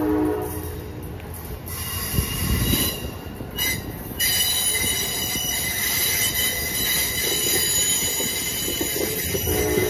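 Amtrak passenger train's cars rolling past with a low rumble, and a high, steady squeal from the wheels setting in strongly about four seconds in. The train's horn is dying away at the start and sounds again just before the end.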